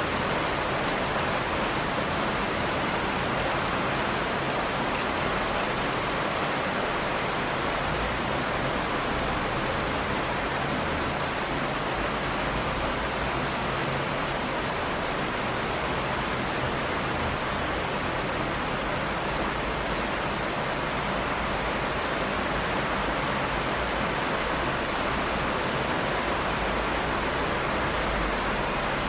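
Steady rain falling, an even rushing hiss that holds at one level without breaks.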